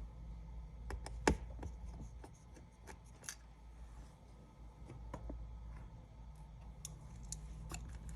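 Small clicks and taps of hand tools working at the LCD connector inside an opened iPad 10, with one sharper click about a second in, over a low steady hum.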